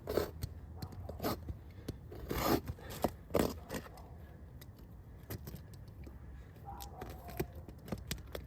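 Roof shingles being handled and pried up by hand: several short scrapes and rustles with scattered clicks, with a quieter stretch in the middle.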